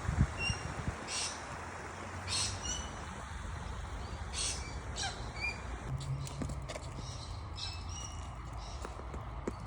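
Birds chirping: short, high calls repeated every second or so, over a steady low rush of outdoor noise, with a low thump just after the start.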